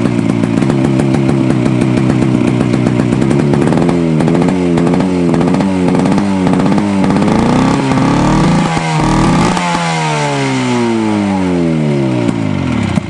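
1973 Rupp 440 two-stroke snowmobile engine running after a cold start, a high-compression motor of about 210 psi. It runs steady, then the throttle is blipped up and down several times, and near the end the revs fall away and it cuts out.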